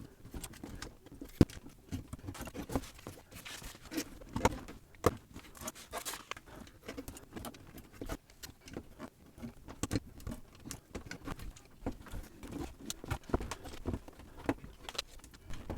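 Plastic building-brick pieces clicking and knocking as they are handled and pressed together, in scattered irregular taps. A plastic bag starts to crinkle at the very end.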